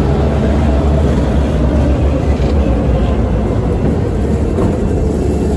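Diesel freight locomotives passing close by, their engines running with a deep, steady rumble over the noise of the wheels on the rails.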